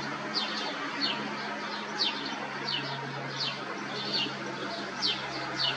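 Small birds chirping: short, high, downward-slurred chirps repeating about once or twice a second over a low steady hum.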